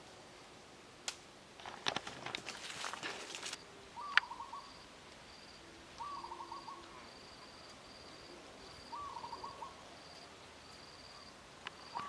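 A bird gives a short trilled call four times, one every two to three seconds, over a faint, broken high chirping. About two seconds in there is a brief burst of rustling and crackling, and a sharp click comes just before the first call.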